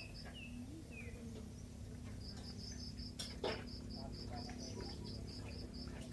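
Insect chirping: a series of short, high pulses, about four a second, starting about two seconds in. Two short falling chirps come in the first second, and a single sharp knock sounds about halfway through.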